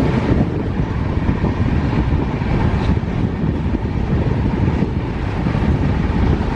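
Rajdhani Express passenger train running at speed: a loud, steady rumble of the coach and wheels on the track.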